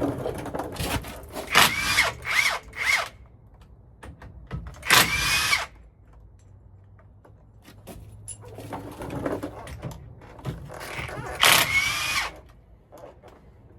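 A power tool run in short bursts on a 12-point driveline socket, spinning out driveshaft bolts: three quick blips in the first few seconds, then two longer runs, each with a rising whine as it spins up.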